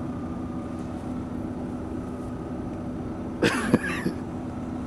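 Car engine idling with a steady hum. About three and a half seconds in comes a brief burst of a person's voice.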